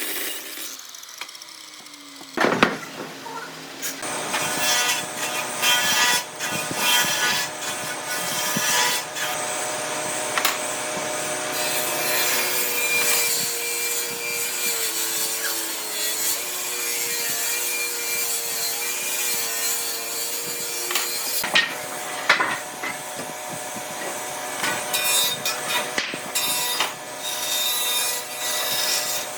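Electric woodworking tool running and cutting solid wood: a steady motor whine that sags and wavers in pitch midway as it bites into the wood, with scattered knocks and scraping of the timber around it.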